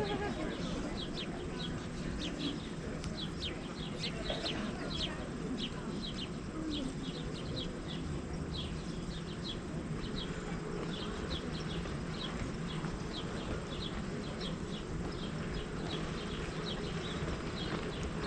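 A bird calling in a steady series of short, high, falling chirps, about two or three a second, over a steady low outdoor rumble.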